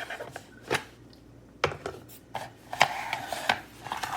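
Stainless steel electric kettle being handled on its loosely fitting power base: a series of sharp clicks and knocks, with a short stretch of scraping and rubbing about three seconds in.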